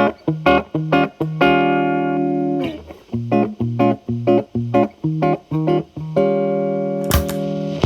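Electric guitar, a Telecaster played through an MI Audio Crunch Box distortion pedal into a Marshall Valvestate amp's clean channel, with the guitar's volume rolled back for a cleaned-up, lightly driven tone. It plays short rhythmic chord stabs, lets a chord ring twice, and ends on a sharp strum with a pick scrape.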